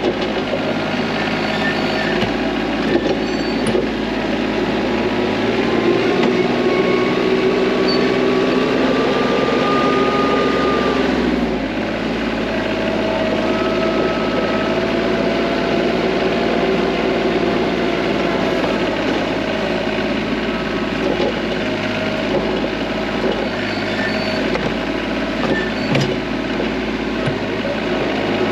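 TYM T25 compact tractor's diesel engine running steadily while plowing snow, its pitch shifting up and down several times, most noticeably about twelve seconds in.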